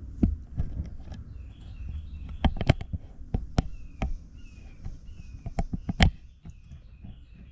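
Scattered sharp metallic knocks and clinks from handling tools and engine parts, the loudest about six seconds in. Behind them a bird chirps a short falling note over and over, about twice a second.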